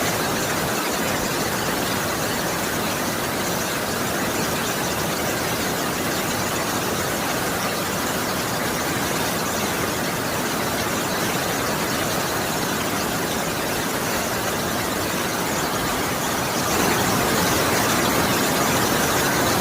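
Heavy rain falling in a steady hiss, growing a little louder near the end.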